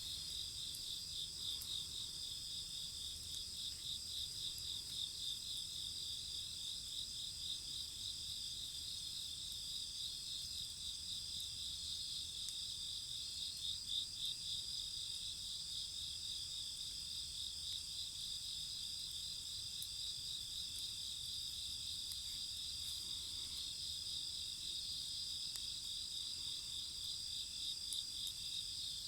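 A steady chorus of crickets and other night insects, several high-pitched trills at once, one of them pulsing in a fast even rhythm. A few faint clicks sound now and then.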